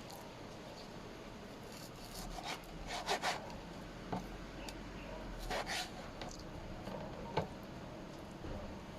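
Kitchen food-preparation handling noise: irregular rubbing and scraping strokes, with a few sharp knocks, the loudest about seven seconds in.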